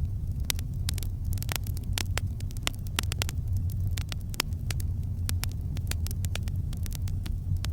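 Campfire crackling: irregular sharp pops and snaps of burning wood, several a second, over a steady low rumble.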